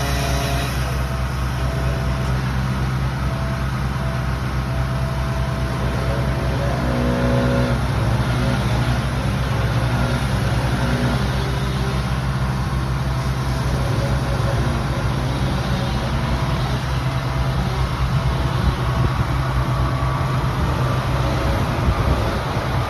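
A large engine running steadily and loudly, with a few short tones that step in pitch in the first eight seconds.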